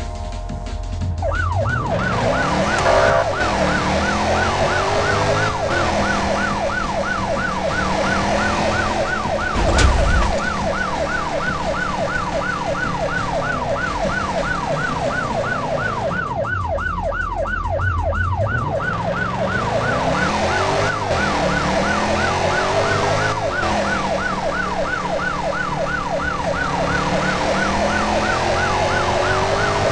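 Emergency vehicle siren in a fast yelp, its pitch sweeping up and down several times a second over a low rumble, starting about a second in. A thump about ten seconds in.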